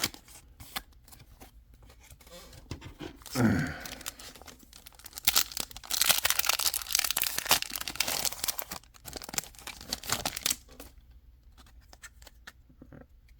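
A foil Pokémon booster pack being torn open and its wrapper crinkled: scattered small rustles at first, then several seconds of loud tearing and crinkling in the middle, which stop a few seconds before the end.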